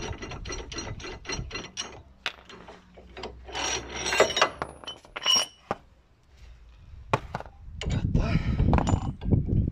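Ratchet wrench clicking steadily, about five clicks a second, then stopping after about two seconds. Metal tools clink and ring after that, with a scraping, rubbing noise near the end.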